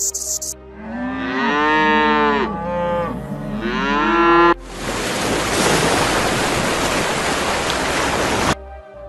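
Cow mooing twice, two drawn-out calls that bend in pitch, followed by a steady hiss of about four seconds that cuts off suddenly.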